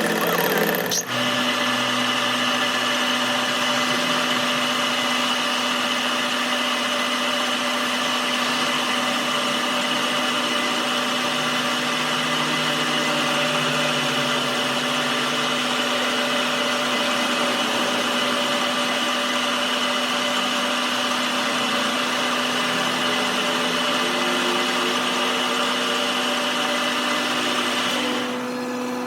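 An electric workshop machine or power tool running steadily with a constant whining hum. It comes on about a second in, and its high whine drops away near the end.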